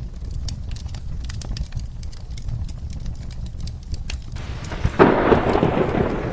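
Wood fire crackling, sharp pops over a steady low rumble. A little over four seconds in, a loud clap of thunder breaks in and rolls on.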